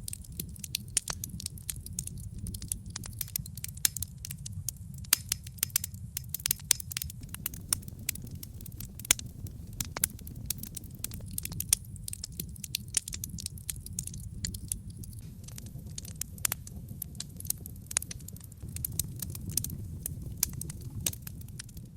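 Wood logs burning in a fireplace: irregular sharp crackles and pops over a steady low rumble of flame.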